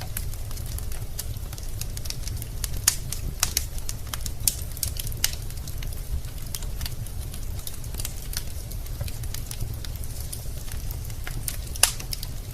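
Wood fire crackling in a fireplace: irregular sharp pops and snaps from the burning logs, with louder snaps about three seconds in and just before the end, over a steady low rumble.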